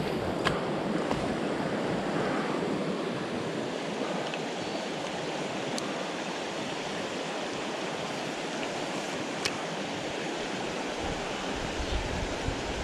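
Creek water rushing in a steady wash, with a few faint clicks on top.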